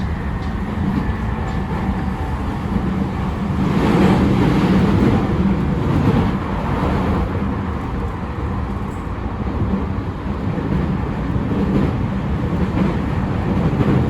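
JR E217 series electric commuter train running, heard from inside the car: steady rumble of wheels on rail with a constant low hum, growing louder for a few seconds from about four seconds in.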